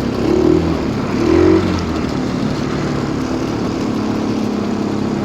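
Stels Kapitan Long snowmobile engine running under way, revving up briefly twice in the first two seconds and then running steadily.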